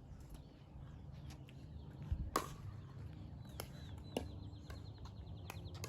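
Pickleball paddles striking the ball in a rally: several sharp pops, the loudest about two and a half seconds in. A bird trills in quick repeated notes through the second half.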